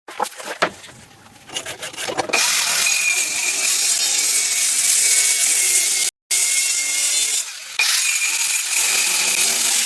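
A power tool cutting wood, running steadily with a thin high whine, after a few knocks and clicks in the first two seconds. The sound stops abruptly for a moment about six seconds in.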